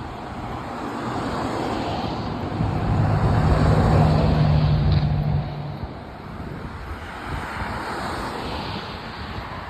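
Outdoor rushing noise, with an engine hum that comes in about two and a half seconds in, holds steady for some three seconds as the loudest sound, then fades away.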